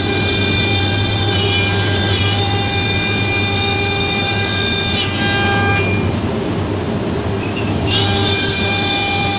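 High-speed CNC router spindle running with a steady whine over a low machine hum, its pitch dipping briefly a few times as it takes cutting load. Its whine drops away about six seconds in and sweeps back up about two seconds later.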